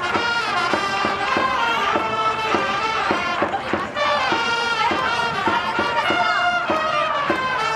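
Baseball cheering-section music from the stands: a melody played on trumpets over a steady drumbeat, with the crowd singing and chanting along to a player's cheer song.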